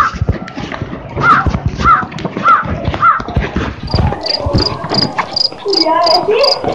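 A bird calling over and over, one rising-and-falling call about every half second, stopping about three seconds in. Then a quick run of short, high, evenly spaced chirps begins, with dull thumps throughout.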